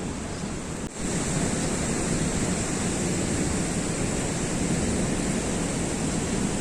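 Steady rushing water with wind buffeting the microphone. It drops out for a moment about a second in, then goes on a little louder.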